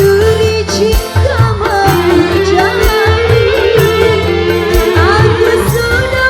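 Live dangdut band music: a wavering melody line over a steady low drum beat.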